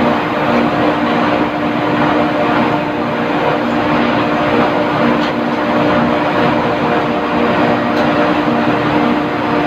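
Loud, steady drone of running machinery, with a constant hum under it and no change throughout.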